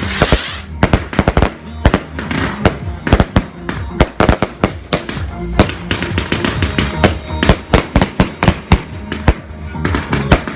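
Fireworks going off in a rapid, irregular string of sharp bangs and crackles, several a second, with a brief hiss at the very start.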